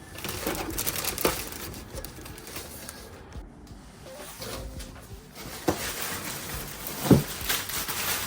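Packaging rustling and crinkling as a sewing machine is lifted out and unwrapped, with a few sharp knocks, the loudest about seven seconds in.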